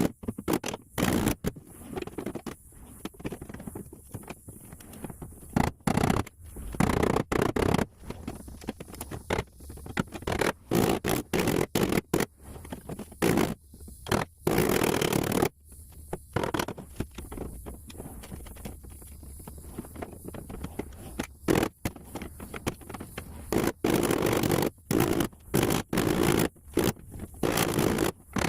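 Irregular scraping strokes on a truck body panel, stopping and starting every second or so.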